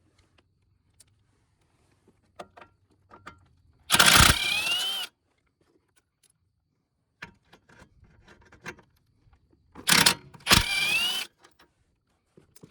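Power tool spinning out 13 mm radiator support bolts in three short bursts, each with a motor whine that rises in pitch, with small clicks and knocks of tool and bolt handling between.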